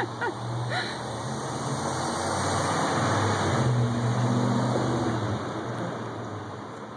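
A motor vehicle passing on the street: engine hum and road noise swell for a few seconds, then fade away.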